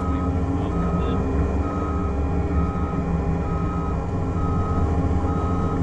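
Excavator's diesel engine running under load, with its travel alarm beeping steadily about once a second.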